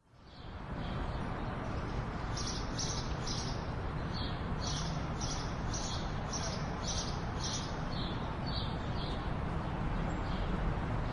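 A bird chirping in groups of short, high, quickly repeated calls, about two or three a second, over a steady low rumbling noise that fades in at the start.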